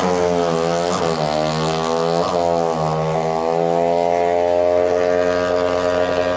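The single-cylinder four-stroke engine of a tuned 180cc Kawasaki KLX drag bike runs loud. It takes three quick throttle blips in the first two and a half seconds, then holds at steady revs.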